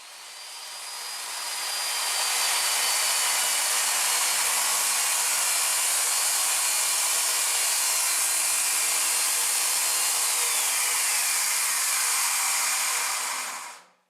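Circular saw spinning up and ripping through a large sheet-goods panel, a dense cutting noise with a high motor whine held steady under load. Near the end the whine falls in pitch as the cut finishes, and the saw stops.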